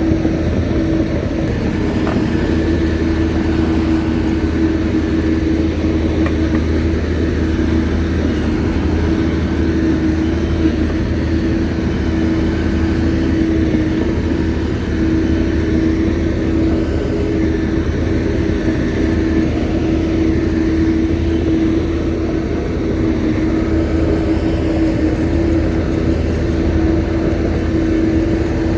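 Shantui bulldozer's diesel engine running steadily, a constant hum with no change in speed.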